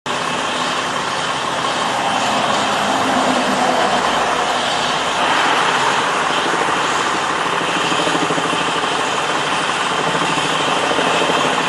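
Steady vehicle engine noise, a constant even rush with no separate knocks or bangs.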